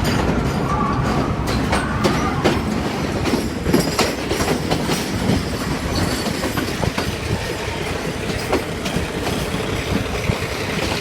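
Train running along the track: a steady rumble, with the wheels clicking irregularly over rail joints.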